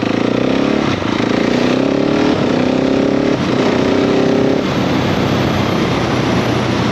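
KTM 690 SMC-R's single-cylinder engine accelerating hard through the gears. The revs climb and drop back with three quick upshifts, then the throttle eases off about two-thirds of the way through.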